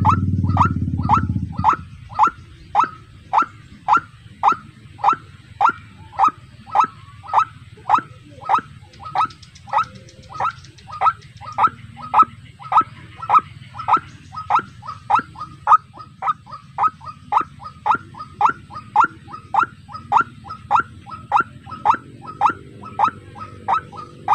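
White-breasted waterhen (ruak-ruak) calling, a short downward-sliding note repeated steadily about two times a second. A loud low rumble covers the first second or so.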